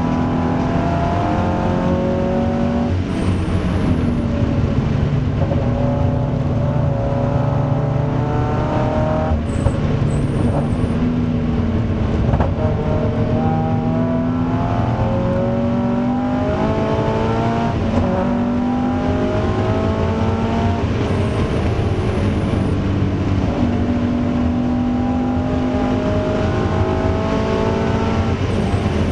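Toyota GT86's 2.0-litre FA20 flat-four engine, heard from inside the cabin at full throttle on track. Its pitch climbs through each gear, then drops at the gear changes and under braking, several times over.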